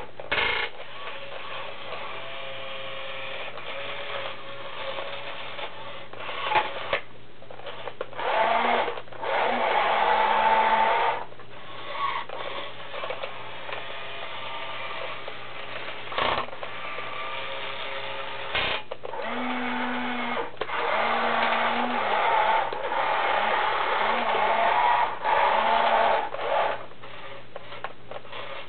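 Small electric motors and plastic gearing of a wired-remote toy Caterpillar 992C wheel loader whining as it is run, starting and stopping in bursts of a second to several seconds, with short higher-pitched spells as different functions are worked.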